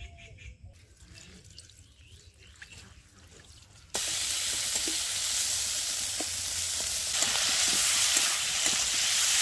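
Vegetables frying in hot oil in a kadai: a steady, loud sizzle with scattered light pops that starts suddenly about four seconds in.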